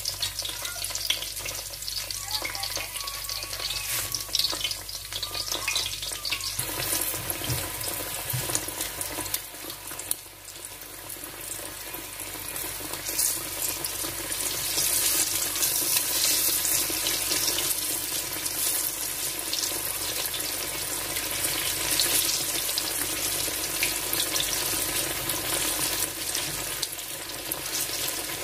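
Battered eggplant slices shallow-frying in hot oil in a skillet: a steady sizzle with fine crackling. It grows louder about halfway through, as the slices are turned over with chopsticks.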